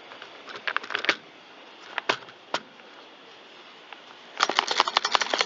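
Chainsaw parts being handled during reassembly: a few scattered sharp clicks, then a fast run of clicking and rattling near the end.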